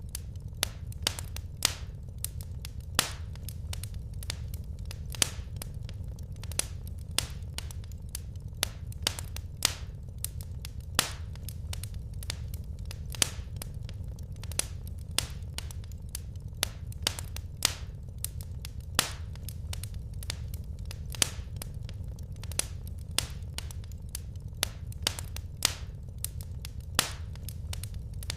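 Wood fire crackling in a fireplace: sharp, irregular pops and snaps, about two or three a second, over a steady low rumble of the burning fire.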